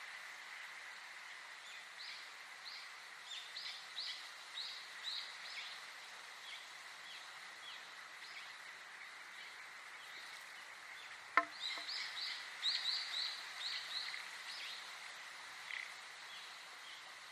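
Songbirds chirping in two quick runs of short, repeated high notes, over a steady high-pitched hum and a soft background hiss. One sharp click sounds about two-thirds of the way through, the loudest moment.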